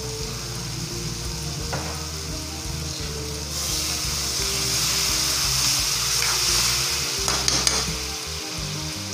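Onion, garlic and tomato sizzling in a hot wok. About three and a half seconds in, water is poured in and the pan breaks into a much louder hissing sizzle with steam, easing off after about four seconds.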